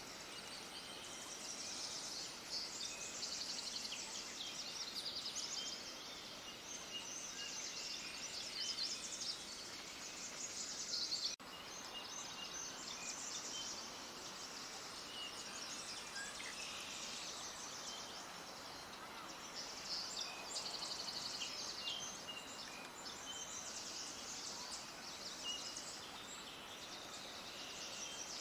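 A dense chorus of many small birds chirping at once, a steady overlapping stream of short high-pitched chirps and trills over a faint background hiss. The sound cuts out for an instant about eleven seconds in.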